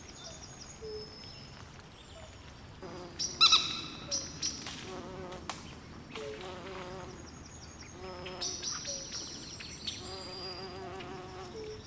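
Swamp ambience of overlapping animal calls: high, short insect-like chirps throughout, a loud clear call about three and a half seconds in, and repeated low warbling trills in the second half.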